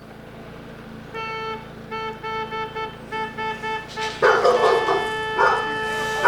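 A car horn honks in a string of short beeps over traffic noise, then is held in one long blast while a dog barks several times.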